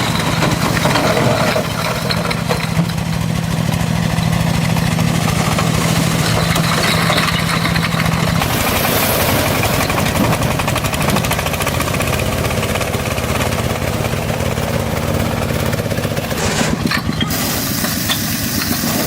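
An engine running steadily. Its steady hum changes about halfway through.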